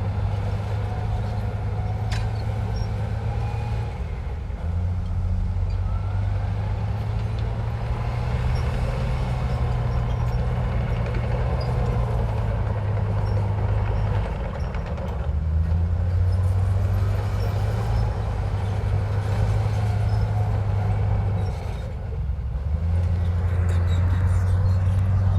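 Komatsu bulldozer's diesel engine working steadily under load, its pitch stepping up and down every few seconds as the load changes.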